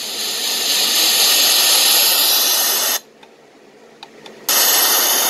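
Small portable white noise machine playing a loud, steady hiss through its speaker. The hiss swells over the first second, cuts off about three seconds in, two faint clicks follow, and it starts again about a second and a half later.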